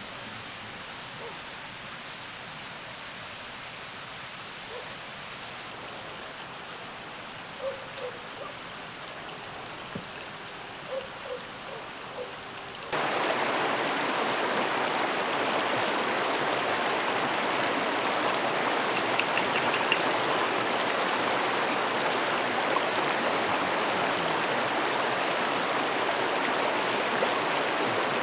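Creek water running, a steady rushing; a few soft clicks in the quieter first half, then the water becomes much louder and closer suddenly about halfway through.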